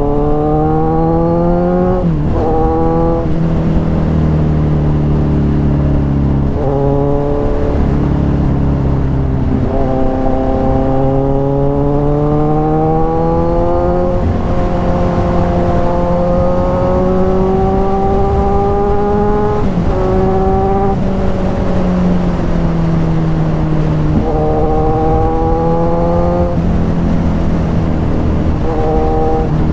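Kawasaki Ninja 1000's inline-four engine through an aftermarket SC-Project exhaust, ridden hard. The exhaust note climbs in pitch and drops sharply at each gear change, over and over, with a few stretches where it holds or sinks slowly as the throttle eases.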